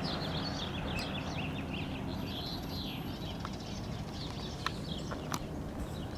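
Small birds chirping in quick repeated calls over a steady low rumble, with a few sharp clicks about a second in and near the end.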